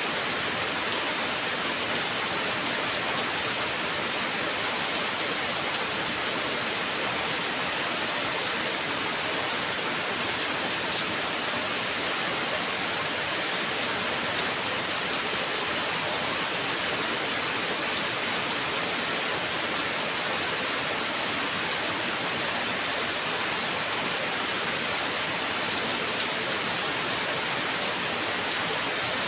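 Heavy rain falling steadily, a dense even hiss of rain on surfaces with faint individual drop ticks, unchanging throughout.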